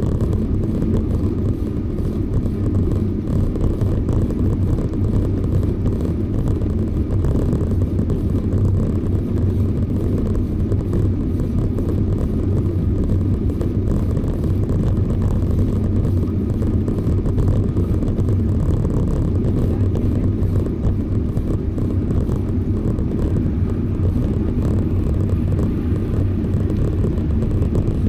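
Steady low rumble of riding a bicycle: wind and road noise on the ride camera's microphone.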